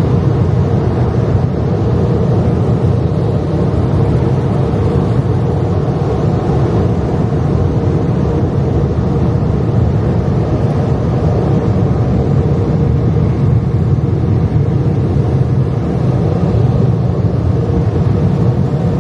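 Steady, loud rushing drone heard from inside a car, like being on an airplane, with no breaks or separate events.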